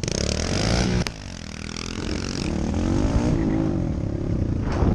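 Small four-stroke pit bike engine revving on the track. About a second in, just after a sharp click, the revs drop off, then climb and hold.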